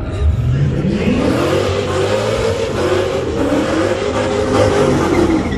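A vehicle engine, most likely a street truck's, accelerating hard under full throttle: its pitch climbs steadily, drops once about three seconds in at a gear change, then climbs again before fading near the end.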